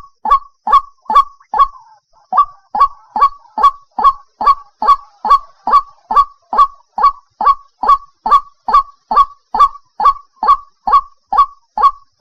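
White-breasted waterhen (ruak-ruak) calling its repeated 'kwak' note, about two to three short falling notes a second, with a brief pause about two seconds in.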